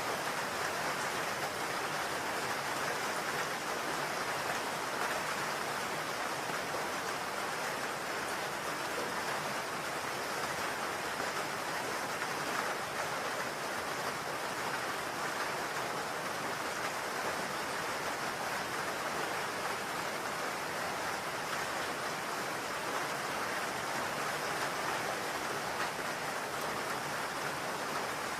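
Steady rain hitting a roof, an even hiss of many drops with no let-up.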